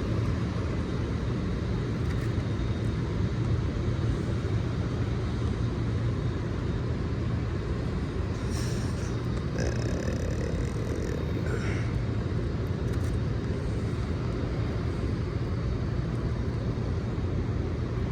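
Steady city traffic rumble, with a few faint high squeaks around the middle.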